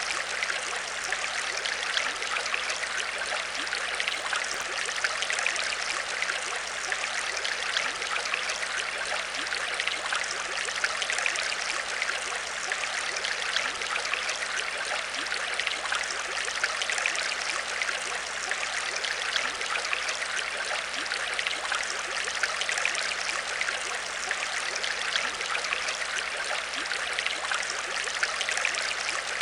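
Aquarium water trickling and bubbling steadily, a dense fizz of small splashes, over a faint low hum.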